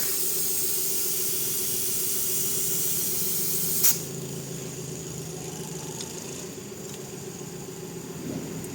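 Compressed air hissing steadily at a heavy truck tyre's valve, cut off by a sharp click about four seconds in. A low steady hum runs underneath.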